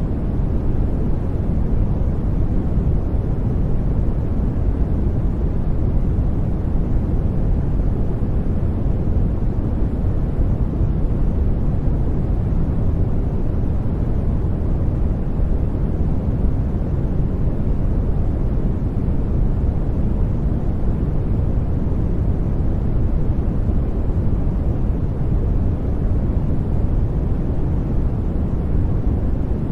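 Steady brown noise: an even, deep rumbling hiss with most of its energy in the bass and little treble, unchanging throughout.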